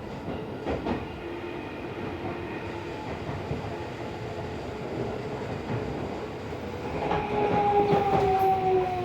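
Tokyo Metro 16000 series subway car heard from inside while running: steady rolling noise with a few clicks from the rail joints. From about seven seconds in, the traction motors' whine grows louder as two tones that slowly fall in pitch, the sign of the train slowing.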